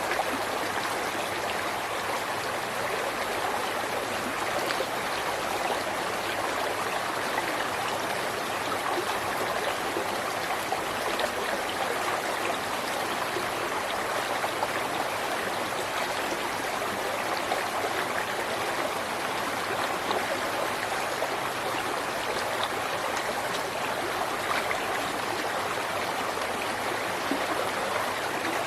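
River water flowing steadily over rocks, with a continuous, even rush and babble.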